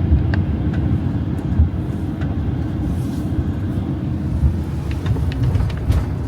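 Steady low road and engine rumble heard inside a Winnebago Travato camper van's cabin while driving on rain-wet roads.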